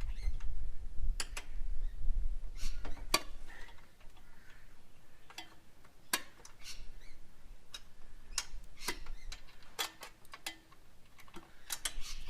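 Irregular sharp metallic clicks and taps from hand tools working the bolts of a motorcycle's front fork, louder in the first few seconds, then fainter and more spread out.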